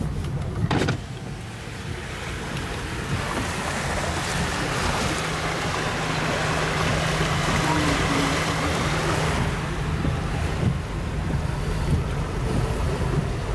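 A vehicle driving through floodwater on a street: the rush of water swells over several seconds to a peak and then fades, over a low engine hum.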